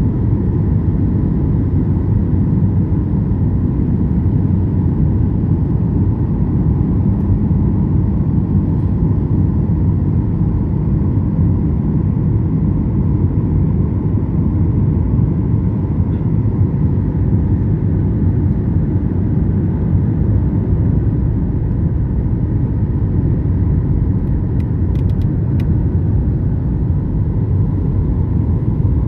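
Airliner cabin noise: a steady low rumble of engines and airflow during the landing, with a few faint clicks near the end.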